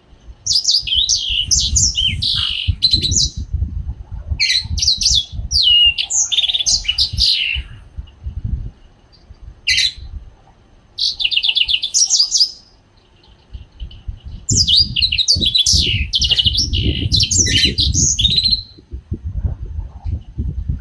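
A young caged songbird (a 'jinqing' bird) singing in rapid, high-pitched twittering phrases, several bursts of a few seconds each with short pauses between. A low rustling runs under the louder song bursts.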